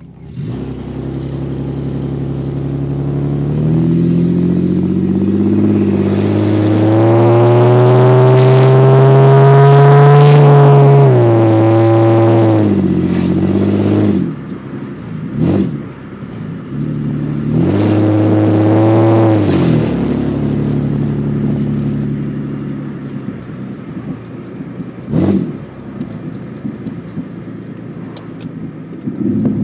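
Holden VL Commodore engine on open extractors with no exhaust, loud and raw. It idles, is revved slowly up and held high for a few seconds, then drops back. It gets a quick blip, a second shorter rev, and another sharp blip near the end.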